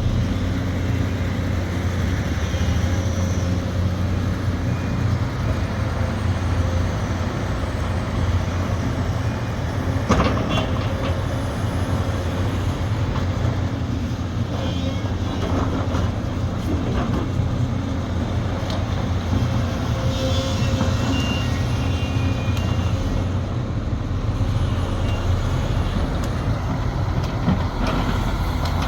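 Sumitomo SH370LHD-6 excavator's diesel engine running steadily, with a sharp clank about ten seconds in and a few lighter knocks near the end.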